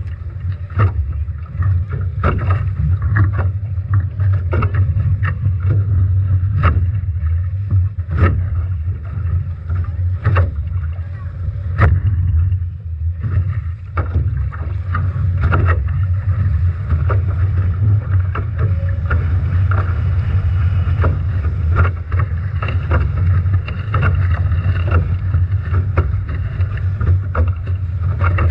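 Strong wind buffeting the microphone aboard a Nacra 17 foiling catamaran sailing upwind in heavy seas, a steady low rumble. Frequent sharp knocks and splashes sound through it as waves slap the boat.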